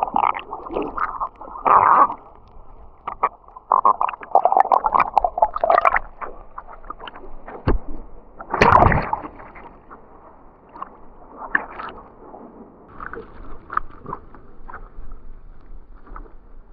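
Muffled water sloshing, splashing and bubbling around a GoPro action camera submerged in the sea, coming in irregular bursts with the strongest about two and nine seconds in.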